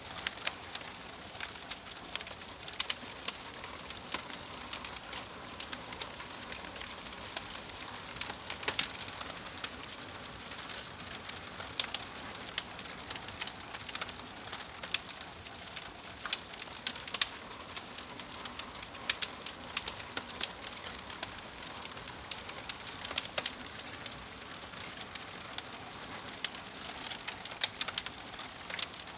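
Wood fire crackling: a steady hiss with frequent irregular pops and snaps.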